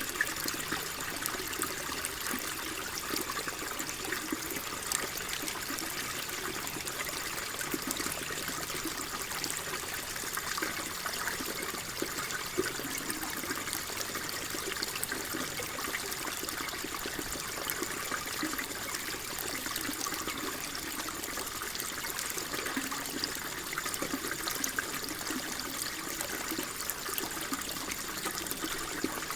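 Water flowing and trickling steadily, with many small splashes and drips over an even rush.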